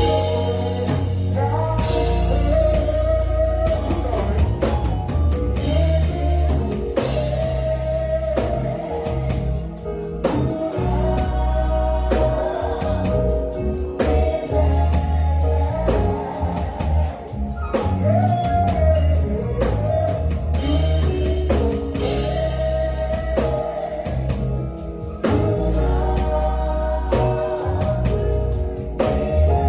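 Live gospel song: a voice singing a winding melody over a band with heavy bass and drums.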